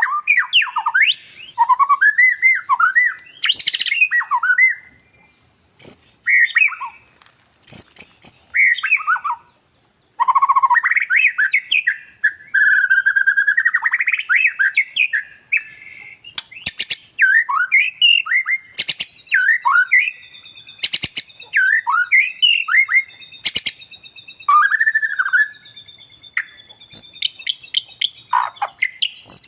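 Oriental magpie-robin (kacer) singing vigorously: a rapid run of varied, gliding whistled phrases and harsh notes, broken by short pauses, with sharp clicks here and there over a steady high hiss.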